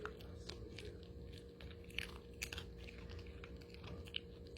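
A Pomeranian crunching and chewing crisp baked plantain chips: faint, irregular little crunches.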